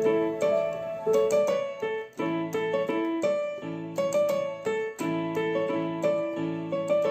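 Electronic keyboard with a piano tone playing a lively melody over repeated chords in the left hand.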